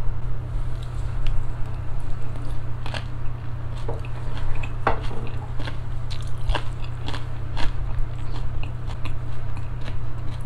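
Close-miked chewing of a mouthful of braised chicken with potato and green-onion kimchi: wet chewing with many scattered crisp clicks, over a steady low hum.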